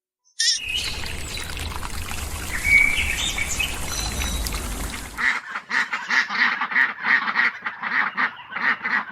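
Birds calling. A first clip has scattered high calls over a low rumble; after a cut about five seconds in, a rapid run of repeated calls follows, about three a second.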